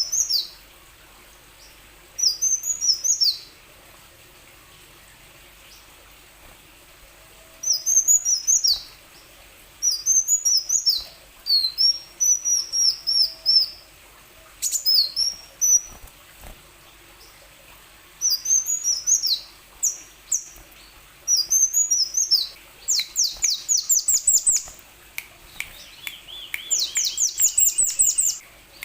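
Van Hasselt's sunbird (kolibri wulung) singing: repeated bursts of high, thin chirping phrases, each about a second long with pauses between. Near the end come faster runs of rapid down-slurred notes.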